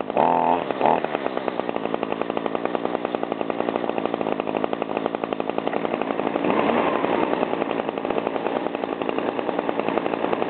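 An Echo GT225 string trimmer and an Echo PB251 handheld blower, both small two-stroke engines, running together with a fast, even firing beat. There is a short surge of throttle near the start and a gliding change in engine pitch about six and a half seconds in.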